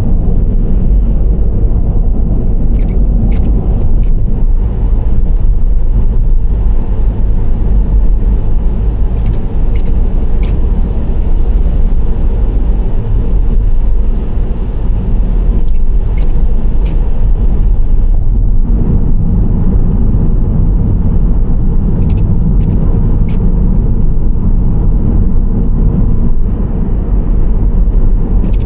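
Nissan Serena C25 minivan driving at road speed: a steady, loud low rumble of engine and tyre noise, with a few faint light ticks every several seconds.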